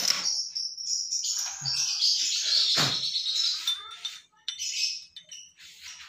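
Birds chirping and twittering, with a single knock a little under three seconds in.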